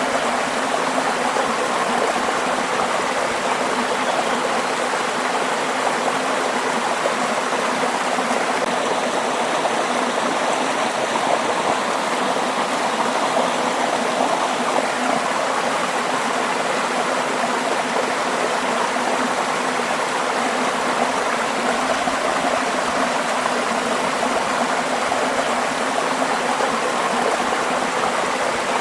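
Waterfall: water falling and rushing in a steady, even noise.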